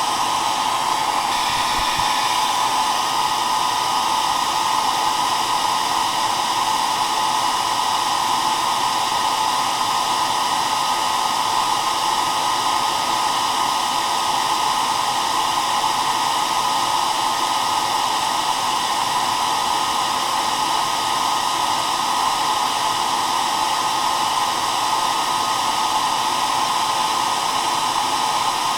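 Hair dryer running steadily: a continuous whooshing rush of air with a faint whine from the motor.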